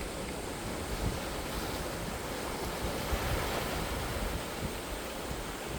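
Sea waves washing on the shore, a steady surf noise that swells slightly in the middle, with some wind on the microphone.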